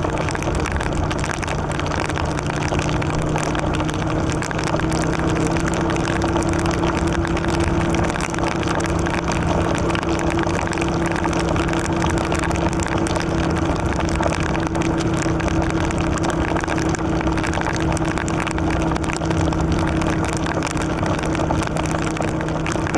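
Yamaha Virago XV750's air-cooled V-twin engine running at a steady cruising speed, its pitch rising slightly in the first few seconds, under a steady rush of wind and road noise.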